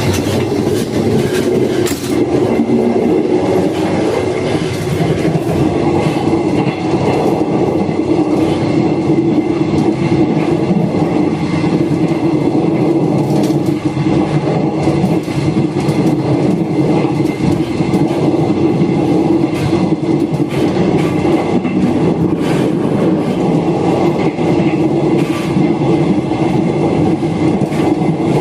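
Passenger train running at speed, about 90 km/h: a steady, continuous noise of wheels on rail with a constant low drone.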